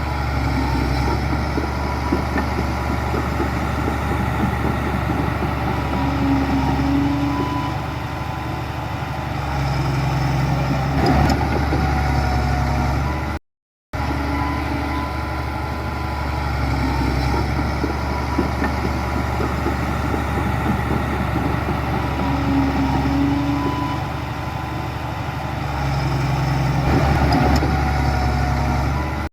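Heavy diesel earthmoving machinery running steadily, with the engine rising in pitch now and then. The sound is cut by a short silence about halfway through, after which the same stretch repeats.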